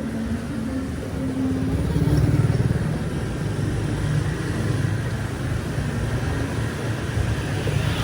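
City street traffic: engines of passing motor vehicles running, swelling loudest about two seconds in.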